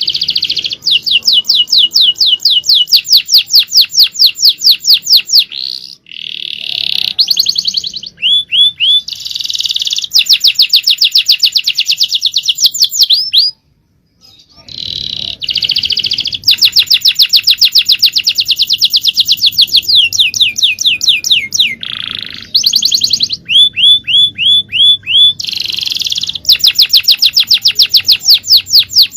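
Male domestic canary singing a long, loud song of rapid trills, with runs of upward-sweeping whistled notes between them. The song breaks off briefly about halfway, then resumes.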